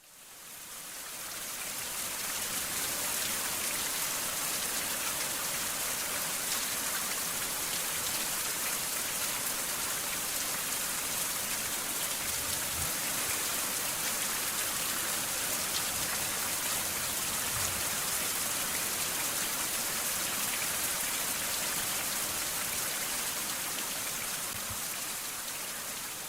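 Steady rain falling, an even hiss with no let-up. It fades in over the first couple of seconds and eases off slightly near the end.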